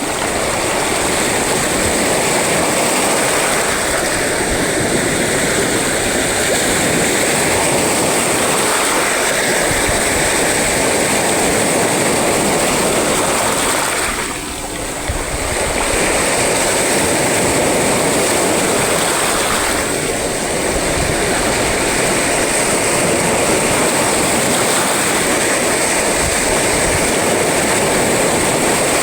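Sea surf: a continuous loud wash of breaking waves, with a brief lull about halfway through.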